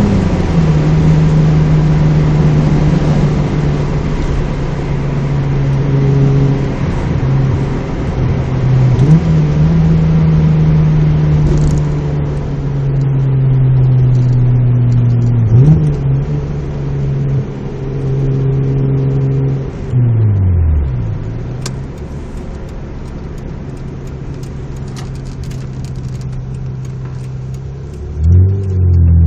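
Mazda MX-3 GS V6 engine heard from inside the cabin through a 2 1/4 in exhaust with a test pipe and Magnaflow street series muffler, running at a steady drone with a few brief pitch changes. About 20 s in the note falls to a lower, quieter steady hum, then rises sharply near the end as the engine revs up again.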